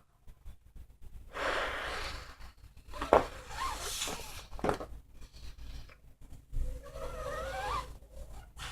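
A person blowing hard in breathy gusts, trying to blow something up, with a couple of sharp clicks between the gusts and a wavering squeal near the end.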